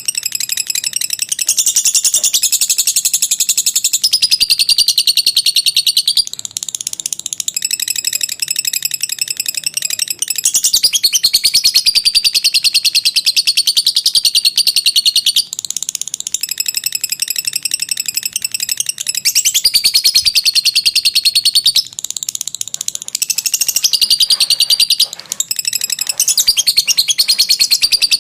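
Lovebird's long 'ngekek' song: a rapid, high-pitched chattering trill kept up for several seconds at a time, broken by a few brief pauses.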